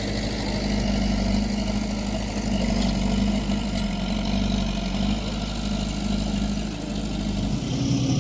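Heavy earthmoving machine's engine running steadily; its note changes about seven and a half seconds in.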